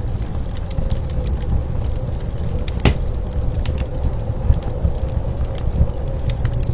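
Wood fire crackling with scattered sharp pops, one louder snap about three seconds in, over a steady low rumble of blizzard wind.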